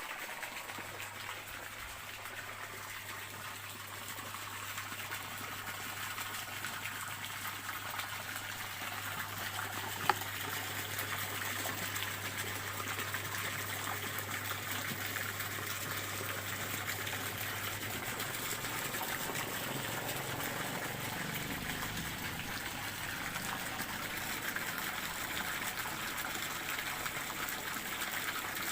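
Water flowing steadily in a stream, an even rushing trickle. A faint low hum runs under it for about the first two-thirds, and a single sharp click comes about a third of the way through.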